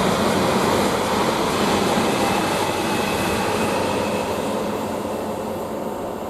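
East Midlands Railway Class 360 electric multiple unit departing, its running noise slowly fading as it draws away.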